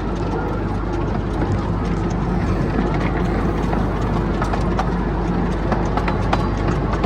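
Steady rumble and wind noise of a moving vehicle carrying the listener in the open air, with scattered light clicks and rattles.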